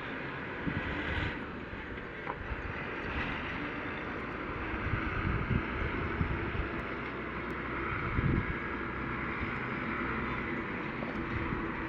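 Wind blowing through trees, with irregular low gusts buffeting the microphone.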